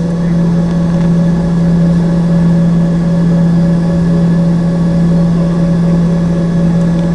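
Embraer ERJ-145's rear-mounted Rolls-Royce AE 3007 turbofan engines running steadily, heard inside the cabin as a loud even hum with a fainter higher tone over a rushing noise.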